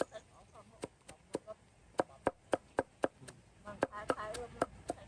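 Chopping with a blade on a board, in quick repeated strokes about three to four a second.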